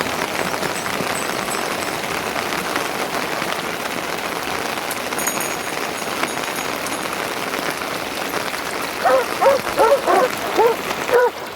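Steady rain falling, a continuous even hiss. Near the end, a quick run of short pitched vocal calls rises over it.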